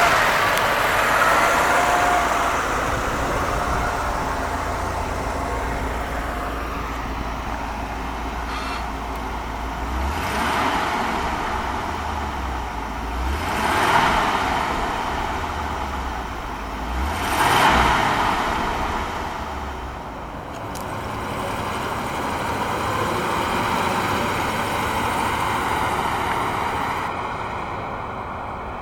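1985 Cadillac Eldorado Biarritz's 4.1-litre V8 running just after being started, swelling louder three times, about ten, fourteen and eighteen seconds in, then settling back.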